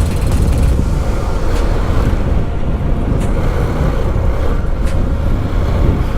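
Motorcycle engine running steadily under way, with wind rumbling on the microphone.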